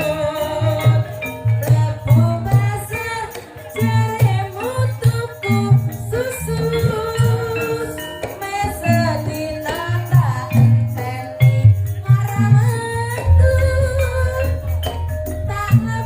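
Live gajah-gajahan band music: a sung melody over drums and jingling, shaken percussion. A deeper, steady bass comes in about thirteen seconds in.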